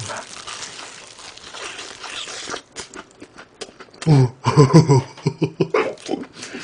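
Biting and chewing crispy fried chicken: crunching and mouth clicks, with a brief run of pitched vocal sounds about four seconds in, the loudest part.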